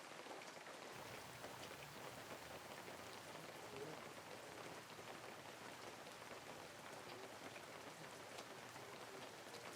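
Faint, steady rain with the patter of many small drops.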